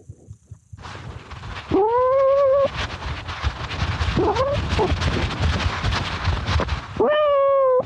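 A kitten meowing in long, drawn-out cries: a loud one about two seconds in, a fainter one in the middle, and another loud one near the end. Crackling and rustling fill the stretch between the cries.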